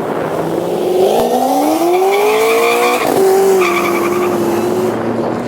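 A car accelerating hard with tyres squealing: the engine pitch climbs for about two seconds, drops abruptly at a gear change about three seconds in, then holds steady.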